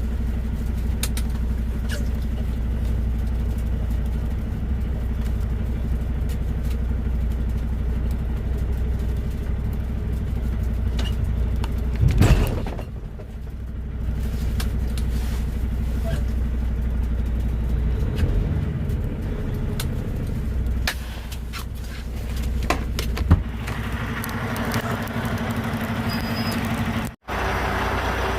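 Semi-truck diesel engine running steadily, with one brief loud noisy burst about twelve seconds in.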